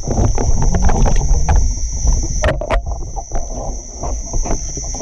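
Water sloshing and knocking close to the microphone, with a steady high-pitched insect call running over it that breaks off briefly about halfway through.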